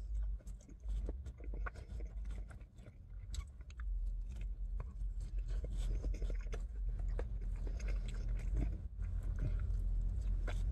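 A person chewing a mouthful of unbreaded blackened chicken tender dipped in sauce, with many small wet mouth clicks, over a low steady rumble.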